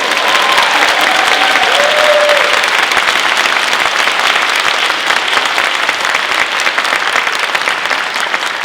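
Audience applauding at the end of a performance, with a few cheers in the first couple of seconds.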